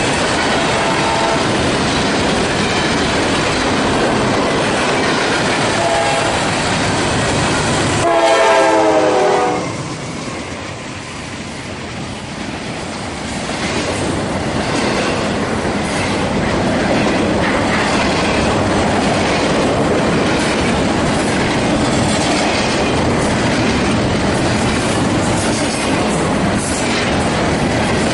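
Freight trains passing close by: coal hopper cars rumbling and clattering along the rails, with a diesel locomotive horn sounding loudly for about a second and a half about eight seconds in, and fainter short horn notes before it. After a brief quieter spell, double-stack container well cars roll past with steady wheel rumble and repeated clicks over the rail joints.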